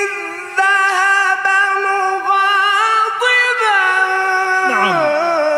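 A single voice chanting melodically in Arabic without accompaniment, holding long notes with ornamented bends, in the style of Quran recitation; a falling run of notes comes near the end.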